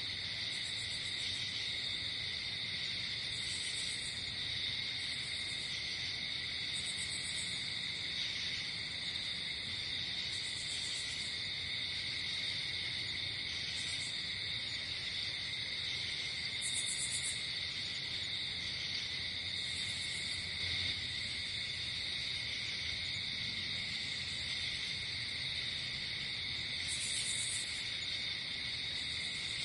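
Night insect chorus: crickets trilling steadily, with short, higher-pitched trills breaking in every few seconds.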